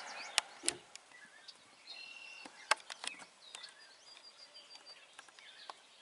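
Quiet outdoor ambience with a few sharp clicks and taps, the loudest a little under three seconds in. A small bird chirps faintly, with a quick run of high notes about four seconds in.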